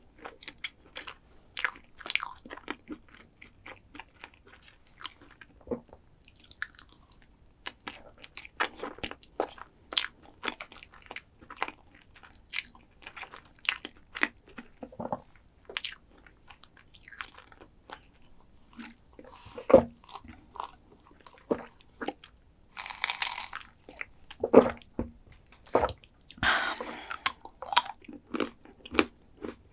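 Close-miked mouth sounds of biting and chewing crunchy chocolate dessert: irregular crisp crunches and clicks throughout. There are two short hissy stretches about two-thirds of the way through and again near the end.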